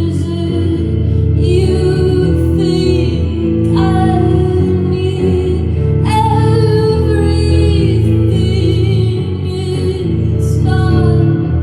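Live solo song: a woman singing long, sliding phrases over her own guitar accompaniment.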